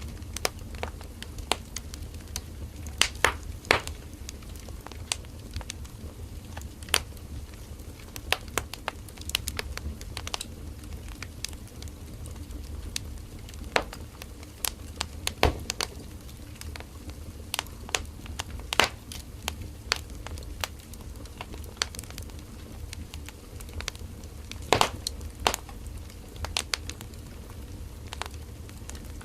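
Firewood burning in a campfire: irregular crackling with sharp pops scattered through it, over a steady low rumble of the flames.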